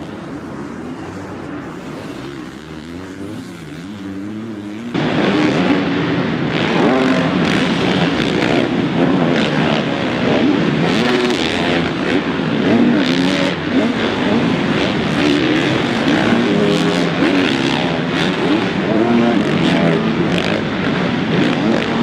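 Motocross bike engines racing, revving up and down as they go past. About five seconds in the sound jumps abruptly to a louder stretch of several engines at once.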